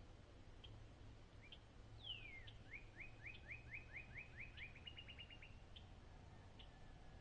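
A songbird singing faintly: one falling whistled note, then a series of quick rising chirps, about five a second, that speeds up into a brief trill and stops. A few single short call notes are scattered around the song.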